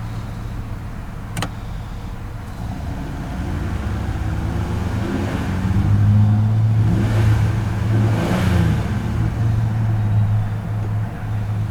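Low, steady vehicle engine hum that gets louder about six seconds in, with one sharp click about a second and a half in.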